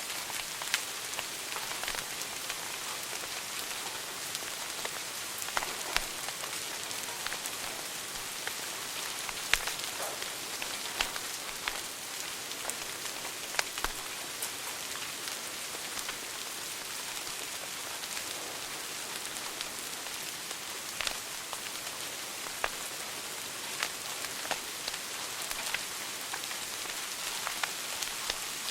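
Wood fire crackling in a fireplace: a steady hiss with irregular sharp pops and snaps scattered through it.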